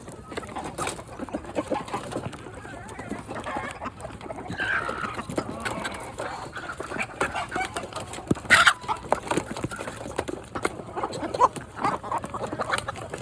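A flock of chickens clucking and calling while they eat, over many short, sharp taps, with one louder tap a little past the middle.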